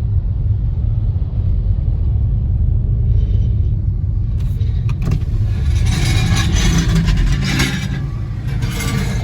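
Car driving on a highway, heard from inside: a steady low road and engine rumble, with a louder rushing noise joining from about four and a half seconds in.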